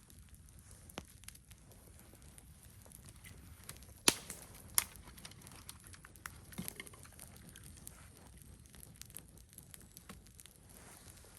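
Campfire crackling faintly with scattered small snaps, and two sharp loud pops about four and five seconds in.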